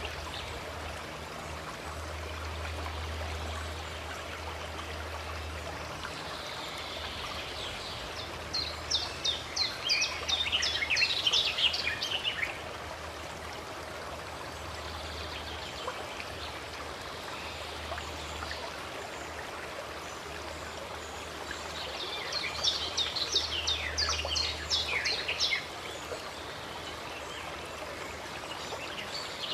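Running water, a steady rush. Twice a bird sings a quick run of high chirping notes lasting a few seconds.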